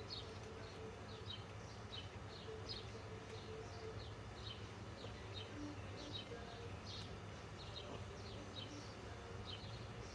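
Faint background: a small bird chirping over and over, short high falling notes about twice a second, over a steady low hum.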